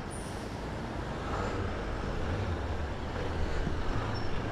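Brixx Venturi 500 motorcycle's liquid-cooled 471 cc parallel-twin engine running as the bike pulls away from the curb into street traffic, the low engine and road noise growing louder from about a second in.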